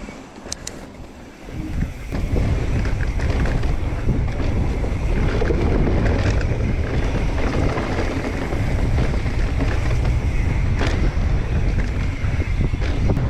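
Wind rushing over the microphone of a mountain biker's camera on a fast trail descent, with the bike rattling over the dirt and a few sharp knocks. The rush builds up about two seconds in and stays loud.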